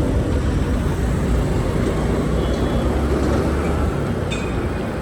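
Motorcycle riding along a road: steady engine and road noise with a heavy low rumble, and two short high tones about two and a half and four seconds in.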